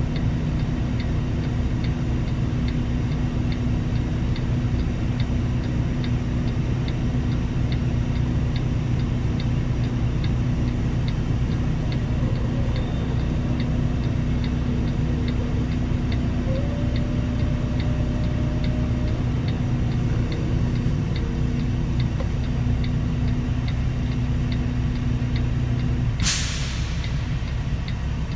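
Semi truck's diesel engine running steadily, with a faint regular ticking about once or twice a second. About 26 seconds in, a sharp burst of air hiss from the air brakes comes as the engine note drops.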